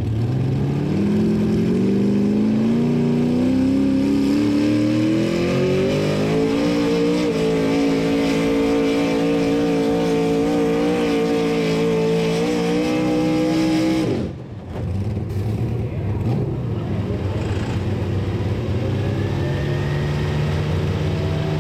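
Engine of a competition pulling truck or tractor at full throttle making a pull against the weight sled. Its pitch climbs steadily for about seven seconds, then holds high and steady. About two-thirds through it drops away sharply as the run is shut down, and a lower engine keeps running afterward.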